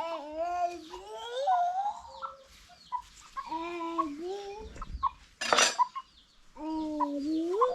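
Chickens calling in a series of drawn-out, wavering squawks. A short loud noisy burst comes about five and a half seconds in.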